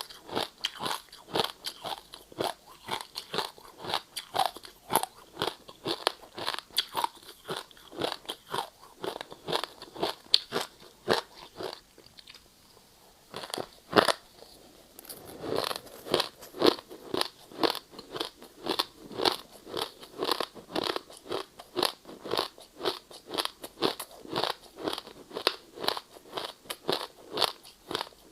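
A person chewing ice with a run of sharp, rapid crunches, a few a second. There is a short pause about halfway through, then one loud bite and steady crunching again.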